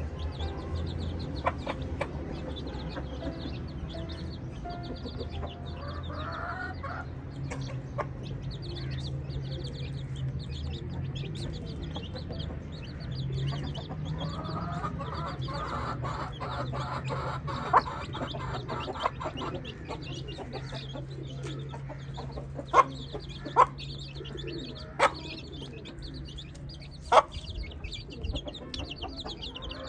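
Domestic hens clucking and young chicks cheeping in a flock, with a steady low hum underneath. A run of rapid clucks comes near the middle, and a handful of sharp knocks stand out in the second half.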